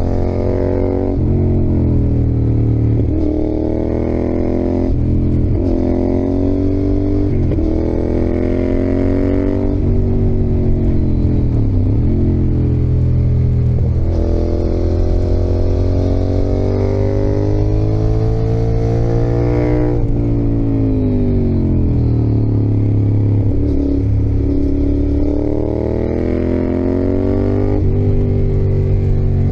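Yamaha XSR700's CP2 689 cc parallel-twin engine under riding load, heard from the saddle. The revs climb and drop again and again, with several sharp dips and a few longer falls before it pulls up again.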